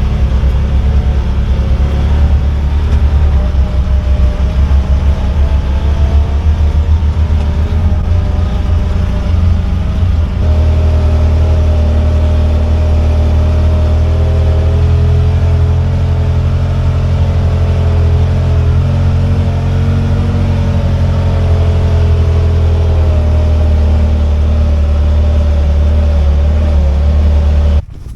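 Tracked side-by-side UTV driving through snow, its engine running loud and steady. The engine note shifts about ten seconds in, and the sound cuts off abruptly near the end.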